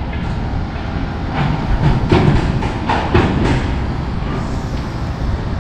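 A passenger train running past on the railway line: a steady low rumble with scattered clacks from the wheels on the track.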